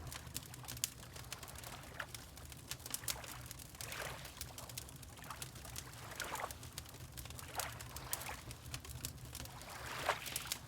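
Water lapping in repeated small washes and splashes, every couple of seconds, over a fireplace crackling with many small sharp pops and a steady low rumble underneath.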